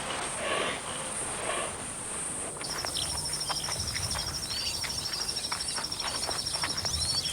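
Wildlife field ambience: repeated short croaking calls. About two and a half seconds in it switches abruptly to a steady high insect trill, with scattered bird chirps and clicks over it.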